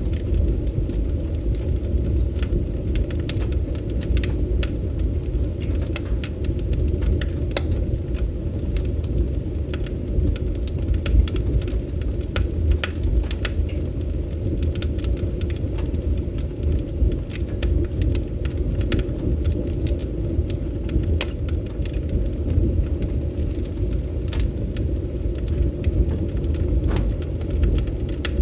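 Wood fire burning: a steady low rumble of the flames with sharp crackles and pops at irregular moments.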